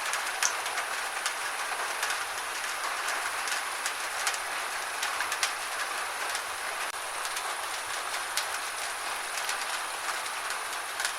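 Gentle rain falling steadily, a soft even hiss with irregular sharper drops ticking through it.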